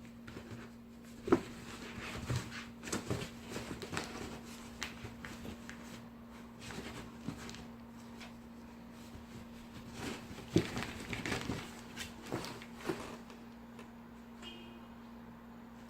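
Cats playing with a cardboard box: irregular scratches, taps and scuffs on the cardboard, with sharper knocks about a second in and again about ten seconds in. A steady low hum runs underneath.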